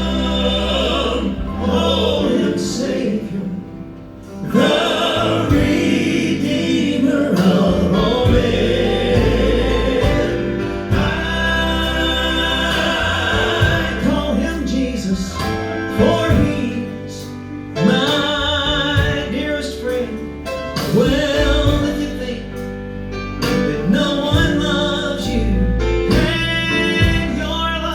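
Gospel music: voices singing with instrumental accompaniment.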